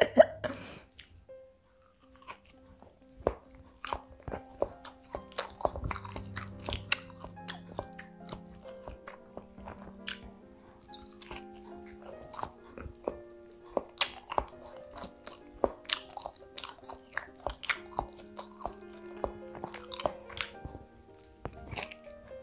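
Close-miked biting and chewing of a soft banana-filled bread roll, with many small crunches and wet mouth clicks, over soft background music.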